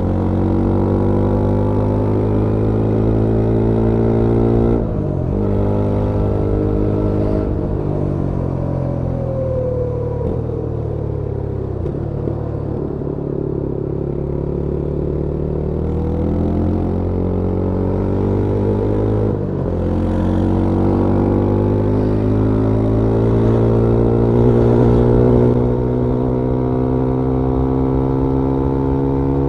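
Yezdi Scrambler 350's 334cc single-cylinder engine and exhaust heard onboard while riding: it pulls rising in pitch with brief breaks at gear shifts about five and seven seconds in, falls in pitch as the bike rolls off and slows midway, then pulls again with another shift about twenty seconds in.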